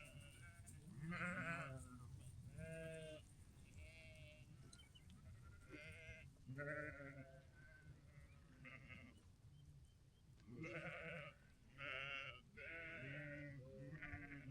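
A flock of sheep bleating: a dozen or so wavering calls from several animals, overlapping in places, crowding together near the end.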